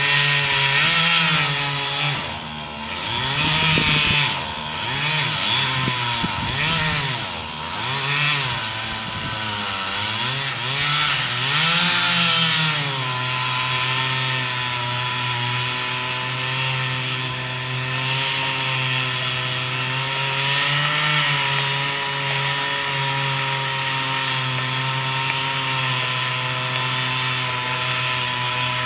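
Two-stroke chainsaw cutting wood. For about the first dozen seconds its engine pitch repeatedly sags and recovers under load in the cut, then it runs on at a steady pitch.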